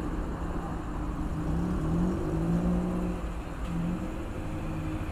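Single-cylinder motorcycle engine running at low speed, rising in pitch briefly twice, about two seconds in and again near four seconds, as the throttle is opened.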